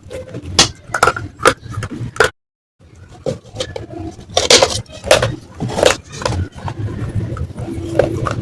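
Irregular, crisp crunches and cracks of baked clay (matka pot) pieces being bitten and chewed close to the microphone, with a brief cut to silence about two seconds in.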